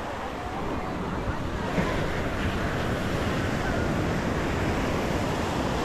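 Ocean surf washing up on a sandy beach, a steady rush of breaking waves that swells a little about two seconds in, with wind buffeting the microphone.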